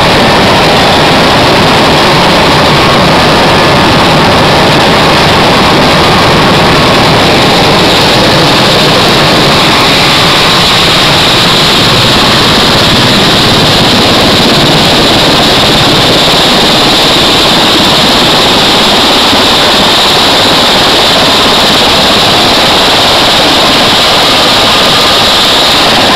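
Military helicopter running loudly and steadily: rushing rotor and engine noise with a constant high whine.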